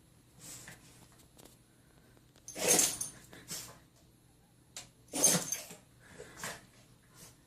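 Dog sneezing repeatedly during a sneezing attack: two loud sneezes about two and a half seconds apart, with softer sneezes and snorts in between.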